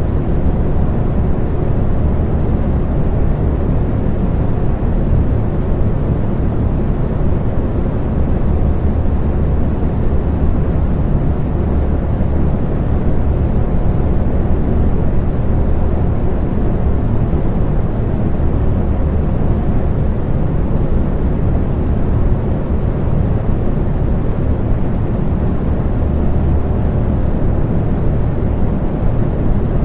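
Electric fan running steadily: a low, even whoosh of moving air with a faint motor hum.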